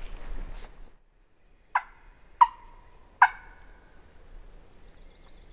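Rustling footsteps stop about a second in, then a turkey gives three sharp yelps, each falling in pitch, under a second apart.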